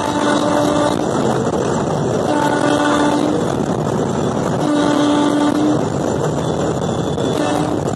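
Cab noise of the Gatimaan Express's electric locomotive running at about 130 km/h: a steady, loud rushing rumble. A low, one-second tone sounds over it several times, a second or two apart.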